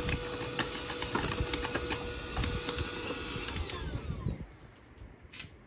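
A small electric dust-clearing tool running with a steady whine and rattling clicks, then switched off nearly four seconds in, its motor winding down with a falling whine.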